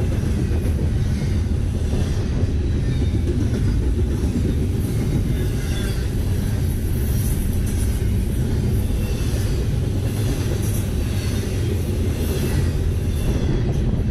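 Double-stack intermodal freight train's container well cars rolling past close by: a steady, loud rumble of steel wheels on the rails with repeated clicks as the wheels pass over the rail.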